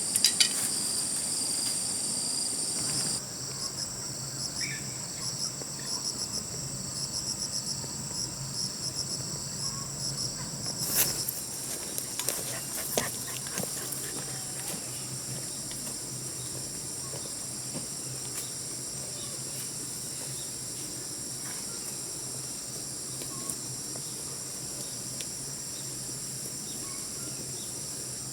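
Steady high-pitched insect chorus, with a pulsing chirp layered over it for a while. A few sharp clicks or knocks sound near the start and again about eleven to thirteen seconds in.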